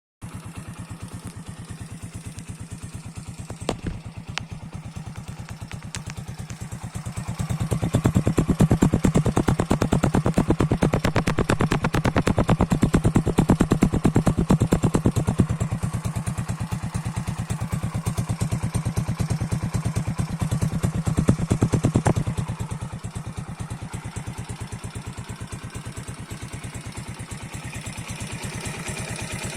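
Racer 125 motorcycle's single-cylinder engine idling steadily; about seven seconds in it is raised to a louder, faster run and held there until about two-thirds of the way through, then settles back to idle.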